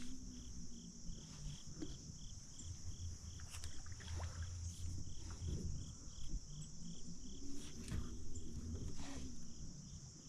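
Insects calling outdoors: a steady high buzzing chorus with a cricket-like chirp repeating about three times a second. Occasional short clicks and knocks from handling gear come through over a low rumble.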